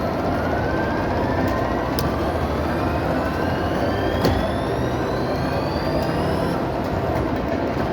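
Slot machine playing electronic tones during a bonus round: a long rising pitch sweep climbs steadily for about six seconds and then stops, with a couple of sharp clicks. Underneath is the steady din of a casino floor.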